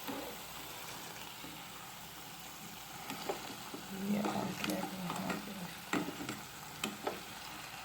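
Chicken in thick yoghurt gravy sizzling in a non-stick pan, with a turner scraping and tapping the pan a few times as the pieces are turned. The gravy has cooked down to the stage where it starts to catch on the bottom. A brief low hum comes in around the middle.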